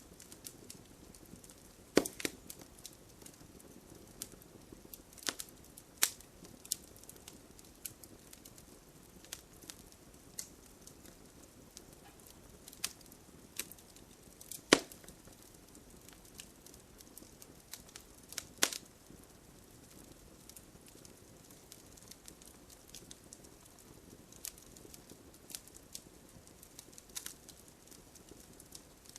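Wood fire in a fireplace crackling, with sharp, irregular pops over a soft hiss; the loudest pop comes about halfway through.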